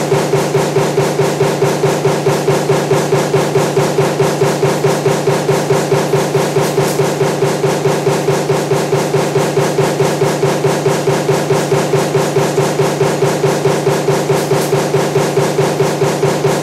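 Power press stamping table fan motor parts with its die, running continuously at about three strokes a second. The strokes are even and sharp, over a steady machine hum.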